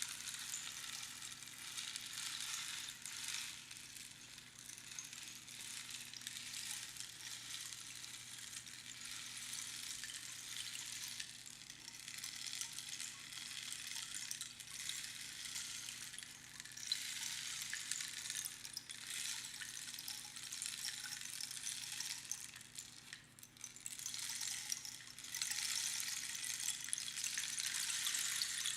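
Rainstick: its fill trickling down over the pins inside the hollow tube, making a rain-like hissing patter. The patter swells and eases several times as the stick is turned, and is loudest near the end.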